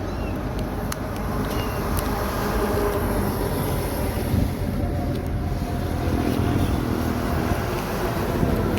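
Road traffic passing: the steady rumble of engines and tyre noise from trucks on the road, growing a little louder after about two seconds.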